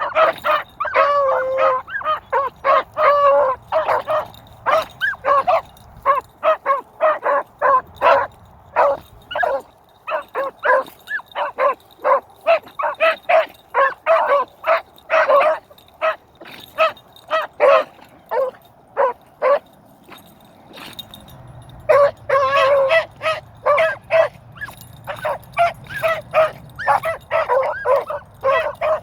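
Beagles yipping and baying in several voices as they run, a rapid stream of short high calls that thins out in the middle and picks back up near the end, over a low rumble of wind on the microphone.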